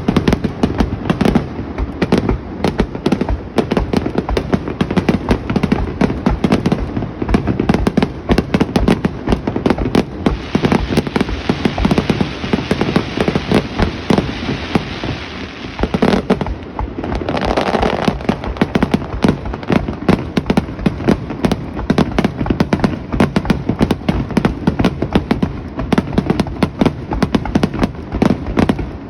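Aerial fireworks bursting in rapid succession, a dense barrage of bangs with no pause. Between about 10 and 16 seconds in, a hissing crackle fills in among the bangs.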